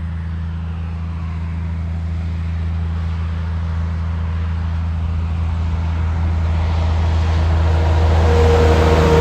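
A truck approaching on a wet road, its tyre and engine noise building steadily and peaking near the end, with a slight drop in pitch as it passes. A steady low engine hum runs underneath.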